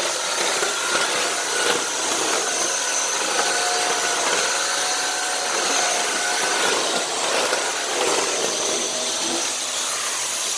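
Dyson Cinetic canister vacuum running steadily, its floor tool being worked over a tile floor, with a steady whine over the airflow rush.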